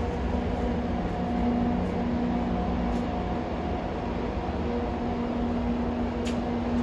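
JR 211 series electric train running, heard from on board: a steady low rumble with a faint steady hum of a few tones, and a couple of faint clicks.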